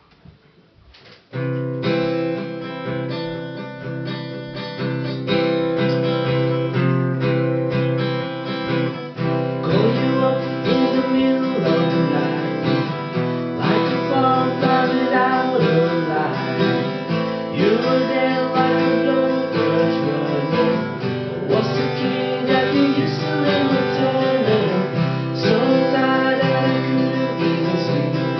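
Acoustic guitar strummed in a song, starting suddenly about a second and a half in. About ten seconds in, a voice joins, singing over the guitar.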